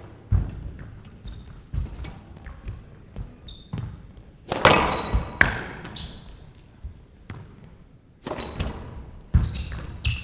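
Squash ball struck by rackets and cracking off the court walls, sharp knocks at an irregular pace with the loudest clusters about halfway through and near the end, ringing in a large hall.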